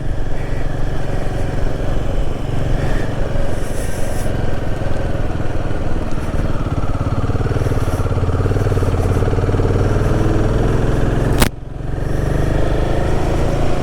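Royal Enfield Himalayan 450's single-cylinder engine running steadily under the rider on a mountain climb, with wind and road noise. About eleven and a half seconds in there is one sharp knock, after which the sound dips briefly before the engine picks up again.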